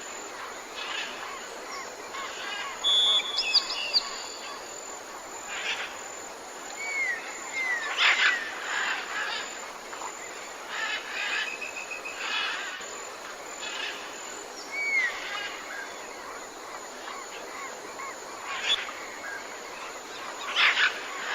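Tropical rainforest bird chorus: many birds chirping and calling over one another, with a few short swooping whistles, over a steady background hiss.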